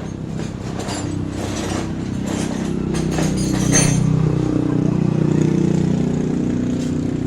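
An engine running steadily at idle, getting louder about halfway through, with a few light metallic clicks over it.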